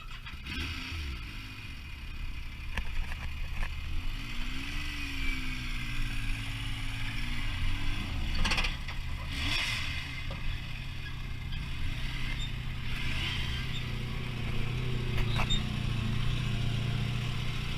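Yamaha YXZ side-by-side's three-cylinder engine running at low revs, its pitch rising and falling with the throttle, with scrapes and clunks as the machine is driven up into the cargo box of a truck.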